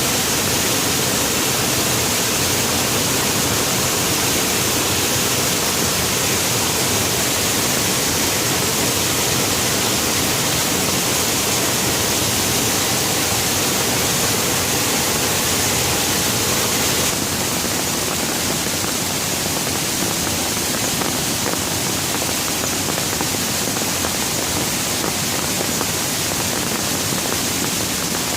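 Steady heavy rain, a dense even hiss with no separate drops or thunder standing out; it steps down slightly in level a little over halfway through.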